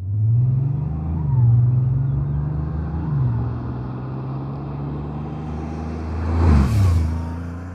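Porsche 911 Turbo S (992.2) twin-turbocharged flat-six under way, accelerating and then dropping in pitch at two upshifts about a second and three seconds in, then running steadily. A louder rush of noise with a falling tone comes about six and a half seconds in.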